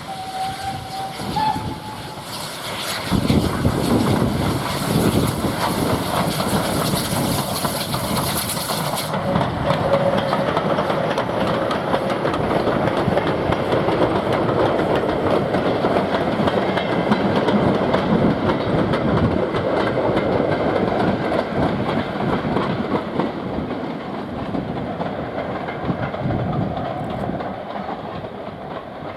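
Steam-hauled train running past on the rails, its wheels clattering over the rail joints, with a short high tone about a second in.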